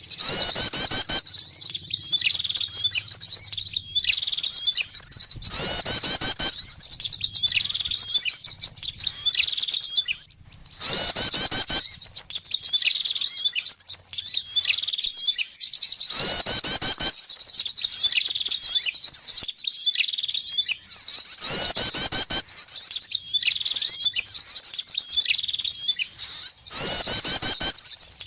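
Looped bird-lure recording of small songbirds chirping rapidly and continuously at a high pitch, with a louder sweeping call recurring about every five seconds.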